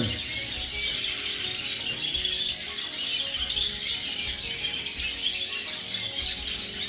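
Many caged finches and canaries (redpolls, siskins and colour canaries) chirping and twittering together in a continuous, dense chorus, with faint background music underneath.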